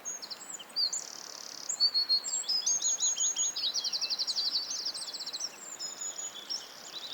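Several songbirds singing and calling over one another, with short high chirps and whistles, a rapid trill about halfway through, and a faint steady hiss of background noise underneath.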